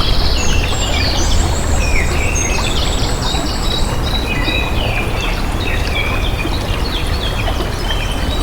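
Steady rush of running water with many small birds chirping and trilling over it, several at once.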